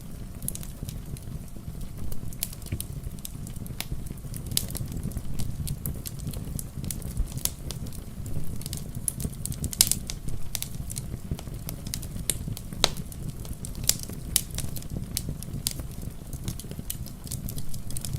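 Wood fire crackling, with sharp irregular pops and snaps scattered throughout over a steady low rumble.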